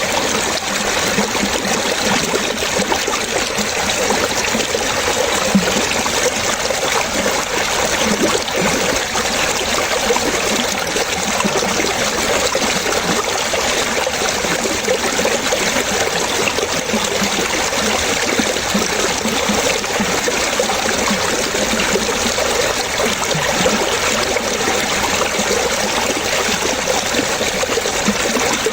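Running water splashing and trickling steadily, as from a stream flowing over stones.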